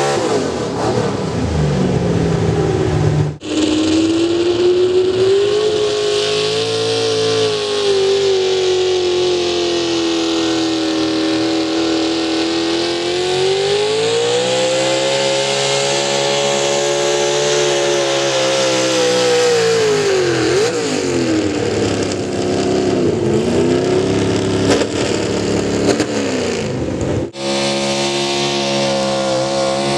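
Pulling vehicle's engine running hard under load, its pitch sagging, then climbing and dipping again as the revs change. The sound breaks off abruptly about three seconds in and again near the end.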